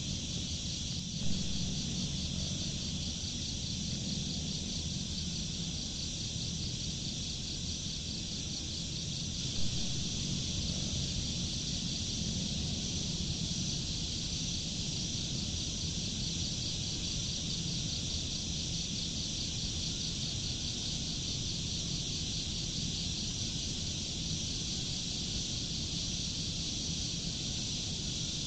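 Insect chorus: a steady, finely pulsing high trill that does not let up, over a low rumble, with two short clicks about a second in and near ten seconds.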